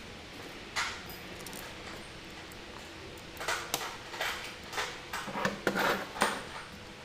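Small metal carburetor parts and tools clinking and tapping as they are handled on a workbench: one tap under a second in, then a run of clinks and light knocks from about three and a half to six seconds in.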